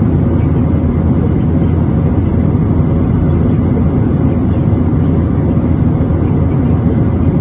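Steady low roar of cabin noise inside a Boeing 737-800 airliner in flight: the hum of its CFM56-7B engines mixed with the rush of air over the fuselage.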